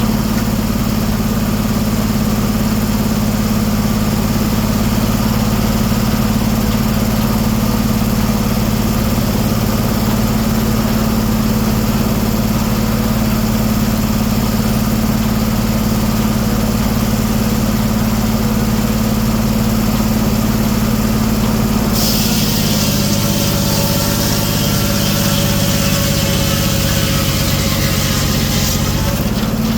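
Engine powering a 1907 American sawmill, running steadily. About two-thirds of the way through, a loud high hiss with a whine joins it and the engine note changes for about seven seconds, typical of the circular saw cutting into a cherry log under load, before it settles back to the plain running sound near the end.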